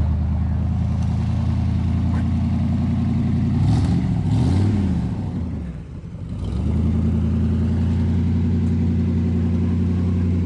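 Car engine idling steadily, revved once about four seconds in, easing back and settling to a steady idle again.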